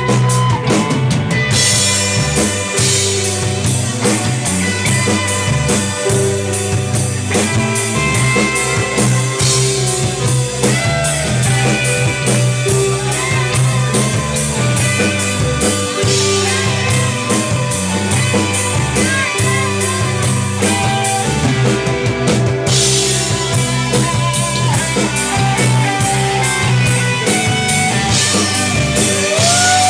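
Rock band playing live: drum kit and guitars over a sustained bass line, at full volume throughout.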